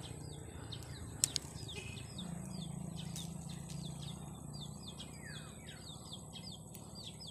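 Small birds chirping over and over in short, high, downward-sliding notes, with a sharp click about a second in and a faint low hum in the middle.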